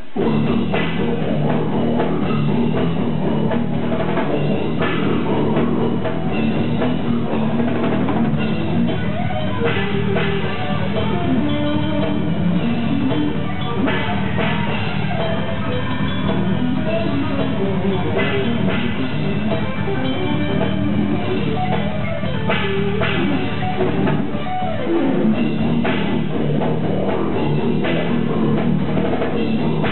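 A death metal band playing loud and without pause: drum kit and heavy electric guitars.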